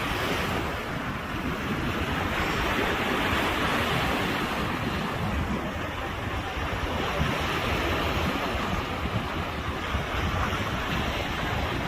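Sea waves washing in steadily, with wind gusting across the microphone as a rough low rumble.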